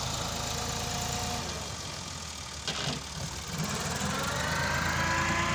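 Tractor engine running steadily under a front-blade job. There is a short clack about halfway through, and the engine note then climbs over the next second or so.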